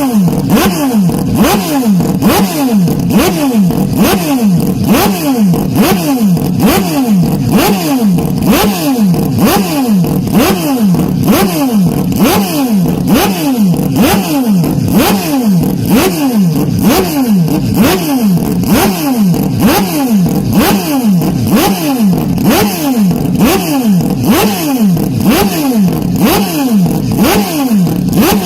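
Loud race car engine sound, heavily distorted, with a falling pitch that repeats evenly about one and a half times a second without let-up.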